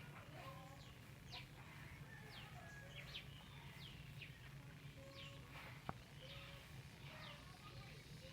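Birds calling faintly: repeated short, high chirps that drop quickly in pitch, mixed with brief lower whistled notes. There is one sharp click about six seconds in.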